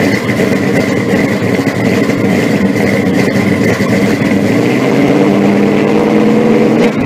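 A car engine running steadily, slightly louder in the last couple of seconds.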